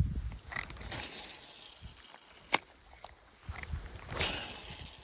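Fishing gear being handled: two short swishes and one sharp click about two and a half seconds in.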